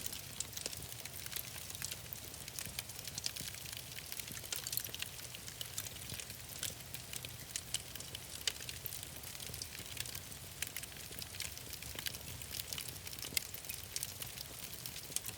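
Wood fire crackling in a fireplace: many small, irregular pops and snaps over a steady hiss and low rumble.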